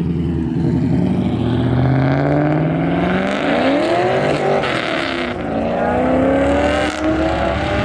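LS V8-swapped Nissan 240 accelerating hard. The engine note rises, drops about four and a half seconds in, then climbs again.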